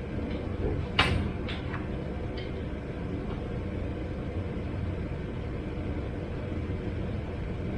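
Steady low hum of machinery, with one sharp knock about a second in and a few lighter clicks after it, from work setting an engine into a car's engine bay.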